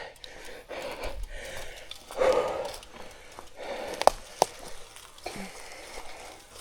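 Mountain-bike rider breathing hard in repeated puffs while riding a dirt trail, with two sharp clicks about four seconds in.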